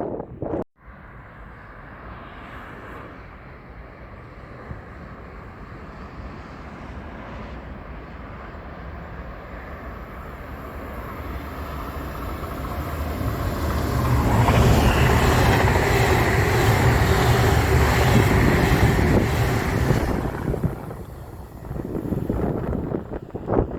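Train passing on the line: a rumble that builds slowly, is loudest for about six seconds with wheel-on-rail noise and a faint steady tone above it, then falls away quickly.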